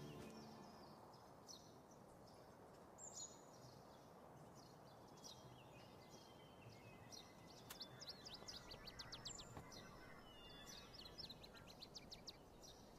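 Faint birdsong over quiet outdoor ambience: scattered high chirps, with a quick trill of rapid notes past the middle.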